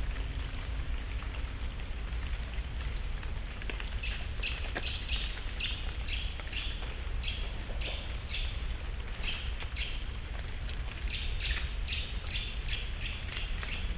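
A bird calling with short, sharp notes repeated about twice a second, coming quicker near the end, over light patter and ticking of falling leaves landing on the forest floor. A steady low rumble lies underneath.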